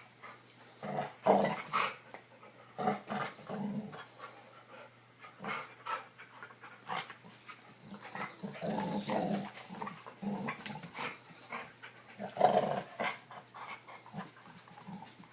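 A dog making short, rough growling sounds in irregular bursts, loudest about a second in and again near the end.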